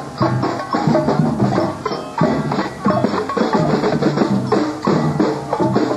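A marching band playing a tune, with drums beating out a rhythm.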